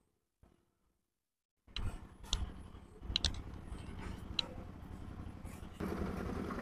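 Near silence for about the first second and a half, then a low rumble with scattered clicks and ticks, growing louder near the end: a tomtom, a battery-powered auto-rickshaw, passing along the village road.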